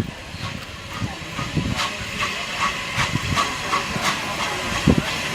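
Steam locomotive 34092, a Bulleid West Country class Pacific, hissing steam as it moves light engine, with a run of short exhaust beats about two or three a second and a heavier thump near the end.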